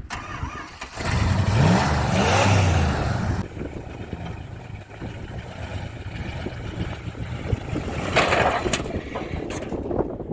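Off-road truck engine revving hard for a couple of seconds, its pitch rising and falling, then running more steadily. A louder rushing noise comes about eight seconds in.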